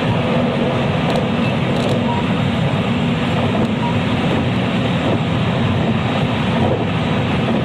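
Running noise of a JR West 223-series electric train's motor car, KuMoHa 223-3016, heard on board while it runs between stations: a steady, even rumble of wheels on rail and running gear with no clear change in speed.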